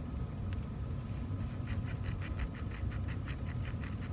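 Hand file rasping across a 14k gold strip in quick, even strokes, about five a second, cutting a groove where the metal will be folded. It starts about a second and a half in, after a single light click.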